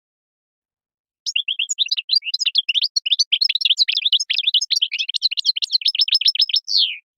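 European goldfinch singing a fast twittering song phrase of quick chirped notes, starting about a second in and closing with a longer falling note.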